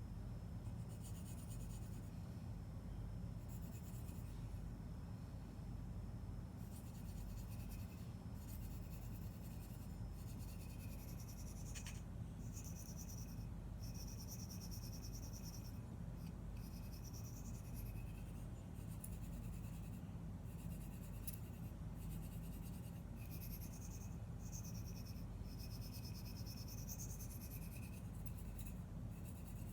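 Spyderco Lil Native's S30V blade being drawn along a sharpening stone: repeated scraping strokes, each about one to two seconds long, with short pauses between them, over a steady low hum.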